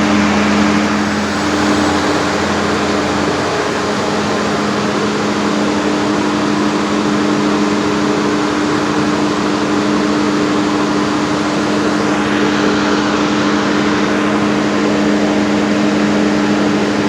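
Perkins 1306-series six-cylinder diesel engine of a 275 kVA generator set running steadily at constant speed after its overhaul, with a loud, even drone.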